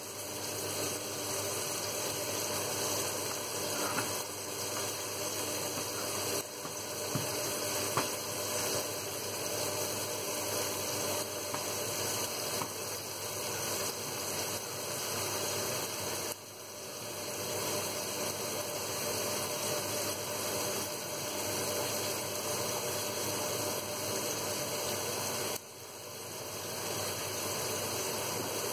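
Steady hiss of chopped onions sizzling in a frying pan, with a pot of peas boiling alongside and a few faint clicks.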